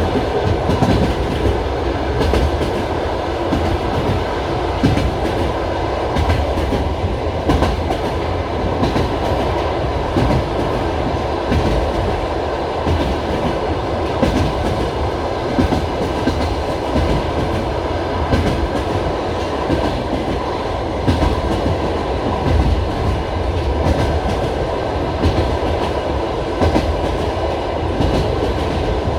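Passenger railway carriage running along the track, heard from inside the car: a steady low rumble with the wheels clacking over rail joints at irregular short intervals.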